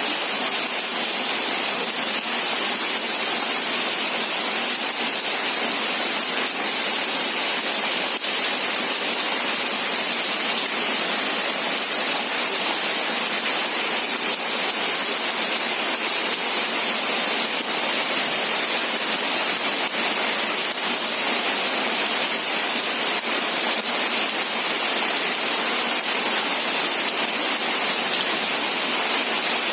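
Steady heavy rain falling: a continuous, even hiss, brightest in the high frequencies, with no distinct drops or thunder.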